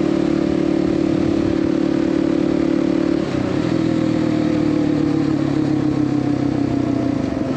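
Kawasaki KLX 300's single-cylinder four-stroke engine running under way on the highway. About three seconds in, the engine note drops suddenly and keeps sinking slowly as the bike slows, then rises again right at the end.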